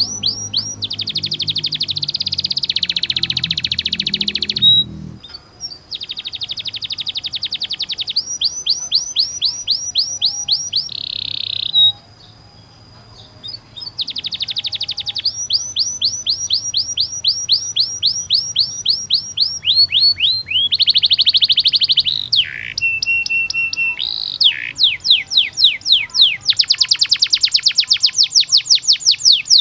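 Domestic canary singing: long rolls of rapid repeated notes, each falling in pitch, alternating with dense buzzy trills, with short breaks about 5 and 12 seconds in.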